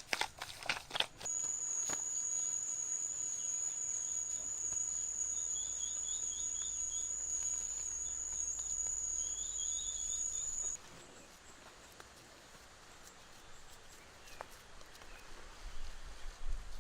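A steady, high-pitched insect trill like a cricket's, with short chirping phrases twice beneath it. It stops suddenly about eleven seconds in, leaving only faint background. A few sharp clicks come just before it starts.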